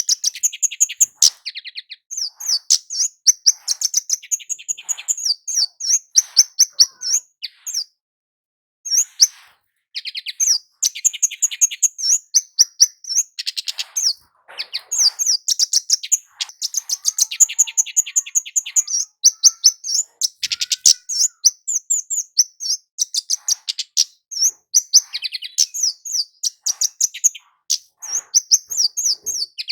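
Kemade flowerpecker (cit keres) singing in its full, lively song: rapid runs of sharp, high-pitched chirps and trills. The runs break off briefly about eight and fourteen seconds in and again near the end.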